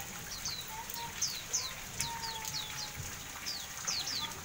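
Pleci auri white-eye calling: about a dozen short, high-pitched notes, each falling quickly in pitch, given in quick runs.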